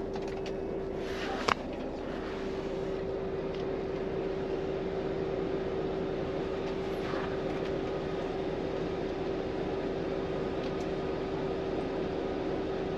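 Volvo FM 420 truck's diesel engine running steadily, heard inside the cab as an even hum with one constant tone. A single sharp click sounds about a second and a half in.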